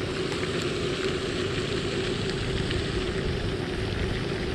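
A steady low rumble with a steady hum, as of a motor running without change.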